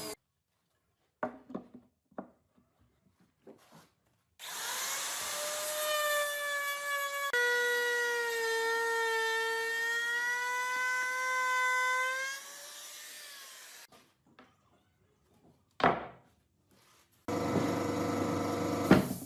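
Electric power tool working wood: its motor whines at a steady, slightly wavering pitch for about eight seconds, then winds down. After a sharp knock, it runs again briefly near the end.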